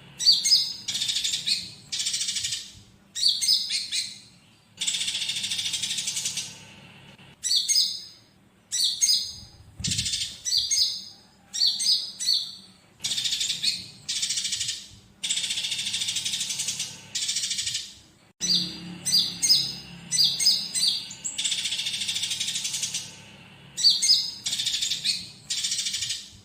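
Konin songbird song packed with mimicked house sparrow fighting chatter. Long rasping trills alternate with quick runs of sharp chirps, and the song cuts off abruptly at the end.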